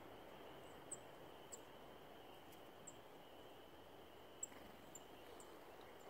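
Faint, very high, short chip notes of a small bird, six or so scattered irregularly, the sharpest about a second in and again past the middle, over a faint steady hiss.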